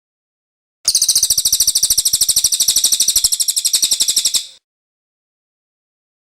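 A cililin bird's song: one fast, high-pitched trill of rapid, evenly spaced notes lasting about three and a half seconds, starting about a second in, with silence before and after.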